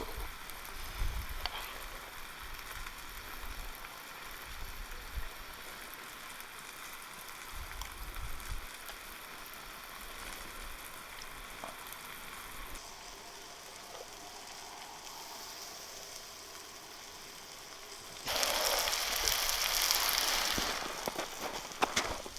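Lamb frying in a hot saj pan over a wood fire, sizzling steadily, with a much louder burst of sizzling near the end.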